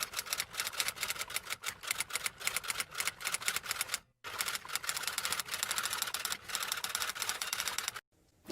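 Typewriter keys clacking in fast, irregular runs, with a brief pause about four seconds in. A short loud burst comes right at the end.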